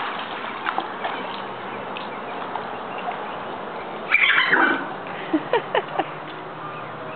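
A dog giving four short, quick yips a little over five seconds in, shortly after a brief louder rush of noise about four seconds in.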